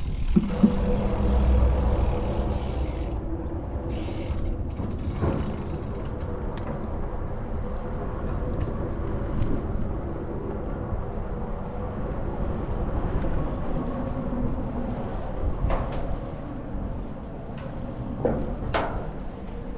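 Steady road and wind rumble from riding a bicycle, with a faint steady hum and a few sharp clicks or rattles along the way.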